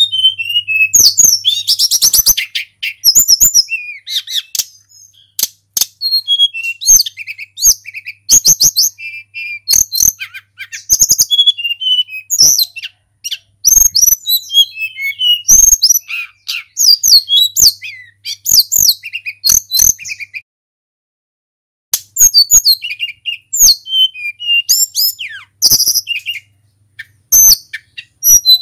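Tledekan gunung (jungle flycatcher) singing at full volume: fast runs of high chirps, whistled slurs and trills, with one pause of about a second and a half some two-thirds of the way through.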